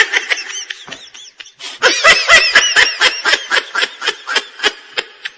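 High-pitched laughter: a short giggle at the start, then, about two seconds in, a longer run of quick rhythmic 'ha-ha-ha' laughs that tails off near the end.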